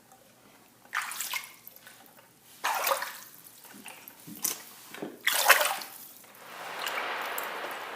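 Water sloshing and splashing in a container in four short bursts, then a longer steady rush of water near the end.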